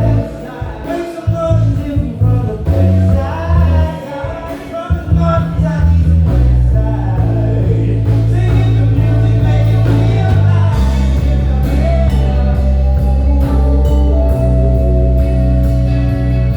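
Live band music: electric bass, drums and keys, with a sung or saxophone melody line on top. Choppy bass notes give way about six seconds in to long held bass notes and sustained chords.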